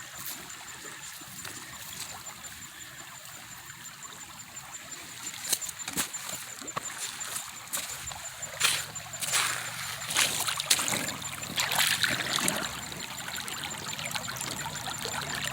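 Shallow creek water trickling steadily. From about five seconds in come splashing and sharp clicks of stones knocking in the water, densest in the second half.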